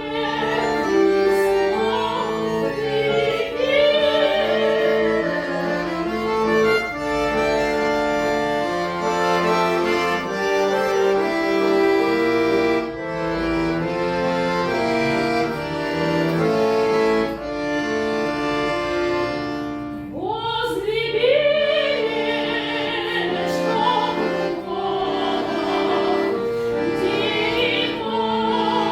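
Classical-style singing with a wide vibrato, accompanied by a bayan (button accordion) holding sustained chords. The voice breaks off briefly about twenty seconds in, then comes back with a rising phrase.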